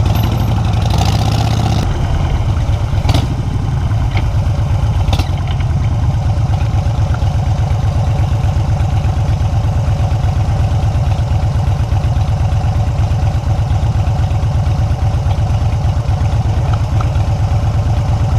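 Motorcycle engine running steadily with a low, even pulse. A short rush of noise comes about a second in, and a couple of sharp knocks follow a few seconds later.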